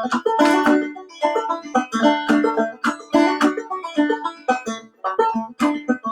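Solo banjo played clawhammer style: a tune of quick plucked notes with sharp strikes in a steady rhythm.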